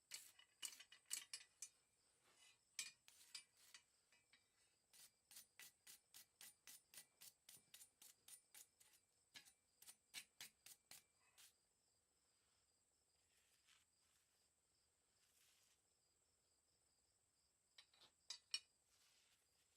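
Faint, light metallic taps of a hammer on mild steel bar: a few irregular strikes, then a steady run of about three a second for several seconds, stopping, with a few more strikes near the end. A faint steady high whine runs underneath.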